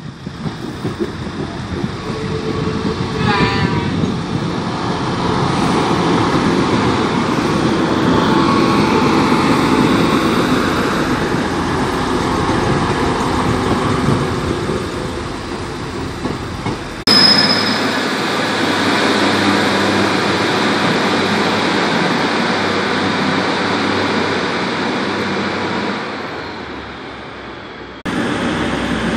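Diesel passenger train passing over a road level crossing, its engine and wheels swelling and fading over several seconds; after an abrupt cut, the steady running of a diesel train at a station platform.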